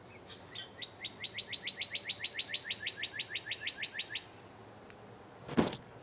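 A songbird sings a short call, then a steady trill of quick down-slurred notes, about seven a second, lasting over three seconds. Near the end there is one loud thump as the phone recording it is handled.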